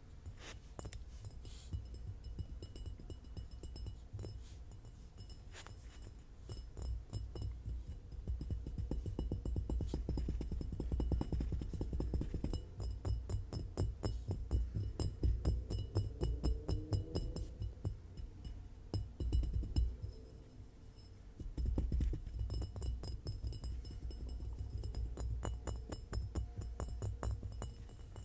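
Fast ASMR tapping on hard objects, in quick runs of many taps a second, with a wavering ringing tone about halfway through.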